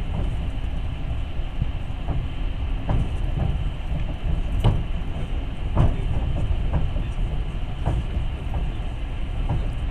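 Passenger train running, heard from inside the carriage: a steady low rumble of wheels on rails, with irregular knocks and clacks.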